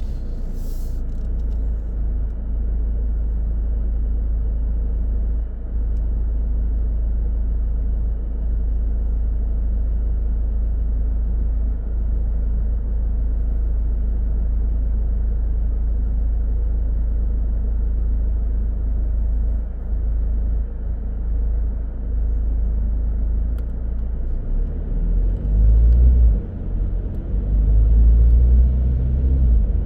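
Car driving on the road: a steady low rumble of engine and tyre noise, with a short click about half a second in and louder low rumbling twice near the end.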